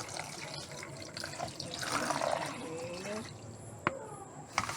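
Water being poured into a container of sago starch, filling it to soak the starch before stirring. Two sharp knocks follow near the end.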